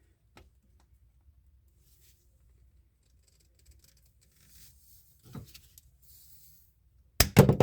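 Faint handling of a plastic drain pipe and tool, then near the end a quick run of loud sharp clicks and snaps as a pipe cutter cuts through the pipe.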